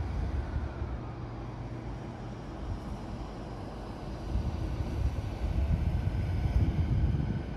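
JR Yokohama Line E233-series electric commuter train starting to pull away from the platform, a low rumble that grows louder from about four seconds in.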